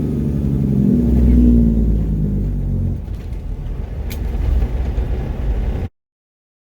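Mack truck's diesel engine running, its pitch shifting in the first two seconds and easing off about three seconds in. The sound cuts off suddenly near the end.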